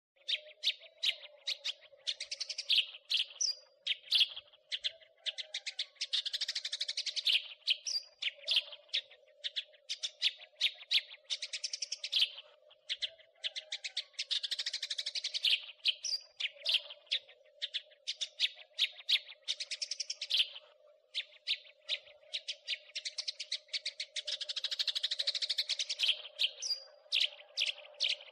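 House sparrow chattering: fast runs of harsh, repeated chirps with short pauses between runs. A faint steady hum sits underneath.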